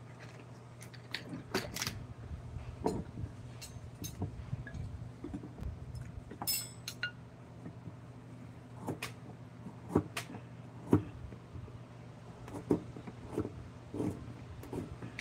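Irregular light taps and clicks of hand tools working a wooden carving, a few sharper knocks among them, over a steady low hum.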